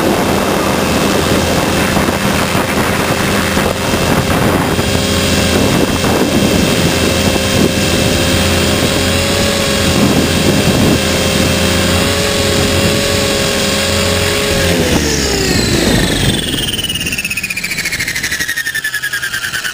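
Electric HK500 RC helicopter running at steady head speed, its motor and rotor making a steady whine. About three-quarters of the way in the pitch falls as it spools down, and a sweeping whine trails off near the end.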